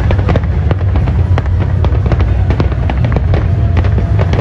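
Large fireworks display: a dense, rapid crackling of many shells bursting over a steady low rumble.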